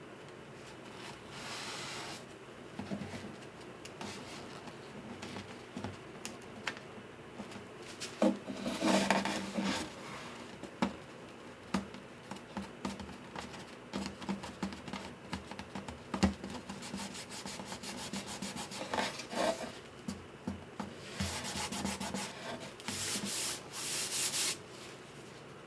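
Hand work rubbing on the wood of a guitar, in uneven bursts of scratchy strokes, with small knocks and clicks between them. The loudest stretches come about a third of the way in and again near the end.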